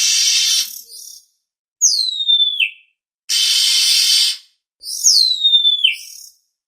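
Oriental magpie-robin (kacer) calls: a harsh rasping burst about a second long, then a clear whistle that slides steeply downward, the pair given twice.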